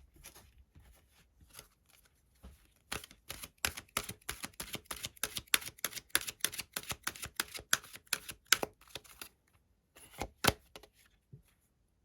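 Tarot cards being shuffled and handled by hand: a quick run of crisp card snaps and taps, several a second, from about three seconds in until about nine, then a couple of louder taps near the end.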